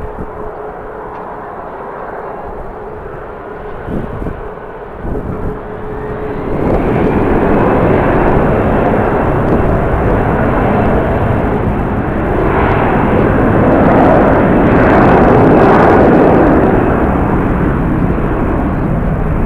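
Jet airliner engines: a steady hum at first, then about six seconds in a loud roar builds with a faint high whine, peaking near the end and easing slightly.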